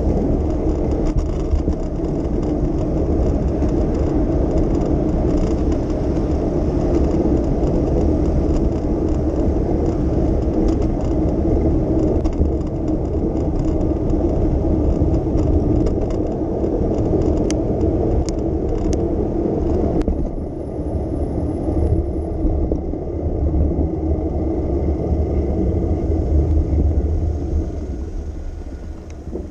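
Steady low rumble of a bicycle ride on city streets: tyre and wind noise with passing traffic, and a few sharp rattling clicks a little past halfway.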